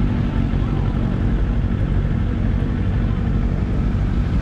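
Motorcycle engine running at a steady speed while riding, with wind rumble on the microphone.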